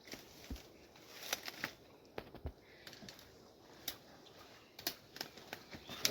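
Irregular light clicks and taps over a faint background hiss, a few sharper ones near the end.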